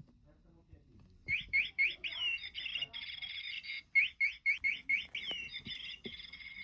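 Rapid bird-like chirping: a quick run of short rising chirps, about four or five a second, starting about a second in with a brief break near the middle.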